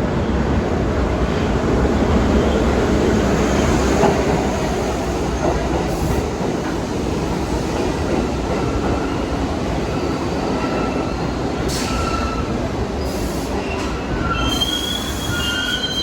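New York City subway train running on the track with a steady, loud rumble. Thin, high wheel squeals come in over the second half and are strongest near the end.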